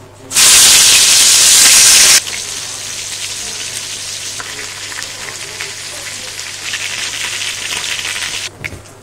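Marinated chicken pieces frying in very hot oil in a stainless steel pot. A loud burst of sizzling lasts about two seconds, then gives way to a quieter, steady sizzle that stops abruptly near the end.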